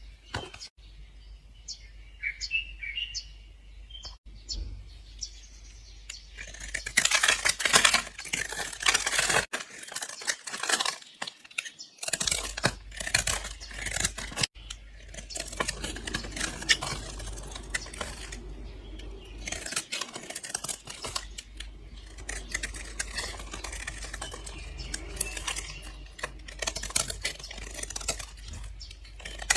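Blade slicing through bars of soap: runs of crisp crunching and crackling, with separate sharp clicks between them, over a low steady hum.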